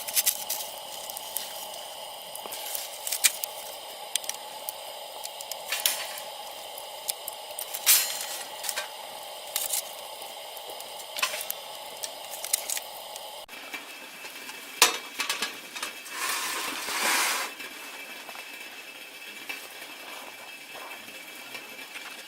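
Scattered light clicks and knocks of small objects being handled, with a short hissing burst about two-thirds of the way through.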